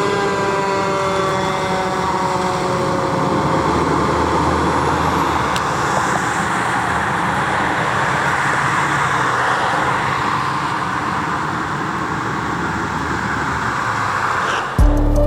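Fire engine siren winding down, its pitch falling and fading over the first few seconds, then the steady rumble of the truck's engine and road noise as it drives on. Music cuts in just before the end.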